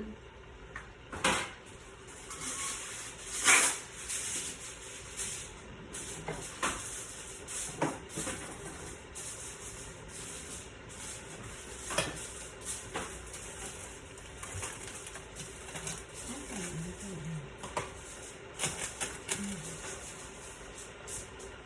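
Aluminium foil being handled and crinkled over a platter: a crackling rustle that comes and goes in patches, with many sharp clicks and light knocks.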